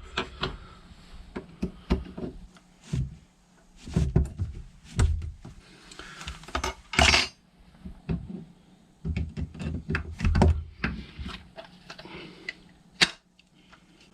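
Irregular clicks, knocks and light thunks of small carburettor parts and hand tools being handled and set down on a workbench, with a brief brighter scrape about seven seconds in.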